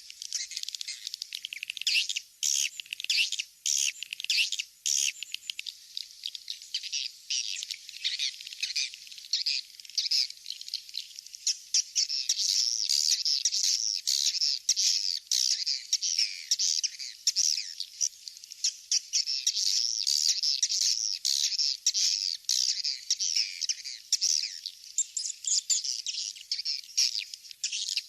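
Edible-nest swiftlets chattering: a dense, continuous twitter of many rapid, high chirps and clicking trills. This is the swiftlet call ('suara panggil walet') used to lure swiftlets into a nest house.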